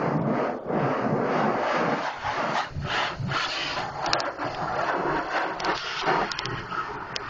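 Coin-operated car wash pressure wand spraying water onto a car: a loud, rushing hiss that swells and dips as the spray is swept across the body, with a few short breaks.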